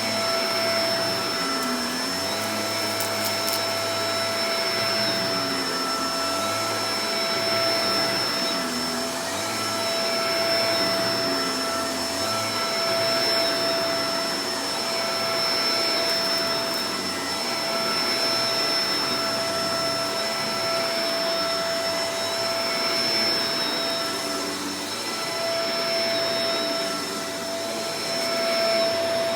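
Shark Professional Powered Lift-Away DLX (NV586) upright vacuum cleaner running continuously: a steady motor whine over rushing airflow, swelling and easing slightly about every two to three seconds.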